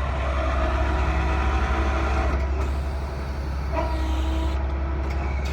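Bucket truck's 7.8-litre Isuzu diesel engine running with a steady low drone. A higher whine over it changes pitch about halfway through and again near the end.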